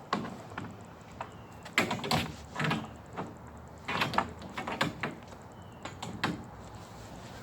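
A run of irregular clunks, knocks and scrapes of gear being handled, loudest about two and four seconds in.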